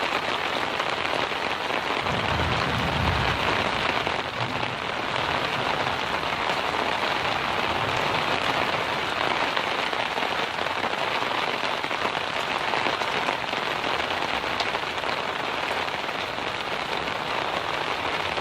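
Steady rain falling, a dense even hiss of drops, with a brief low rumble about two seconds in.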